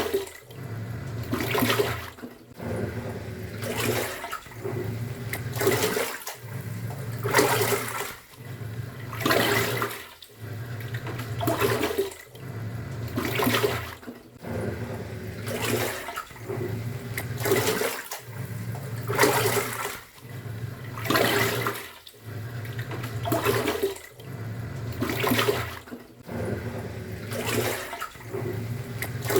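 Top-loading pulsator washing machine agitating a wash load. The motor hums, stops and restarts about every two seconds as the pulsator reverses direction, and the water sloshes with each stroke.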